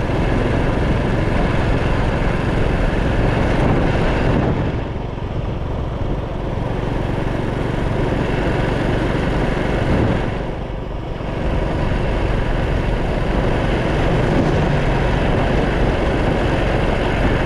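Motorcycle engine running under way, with heavy wind rush over the microphone. The noise dips briefly twice, about five seconds in and again about eleven seconds in.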